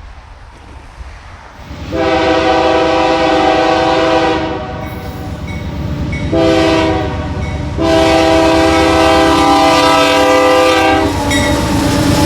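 Freight locomotive multi-chime air horn sounding for a grade crossing: a long blast, a short one, then a long one, over the rumble of the approaching train. Near the end the horn stops and the train rolls past with wheels clattering on the rails.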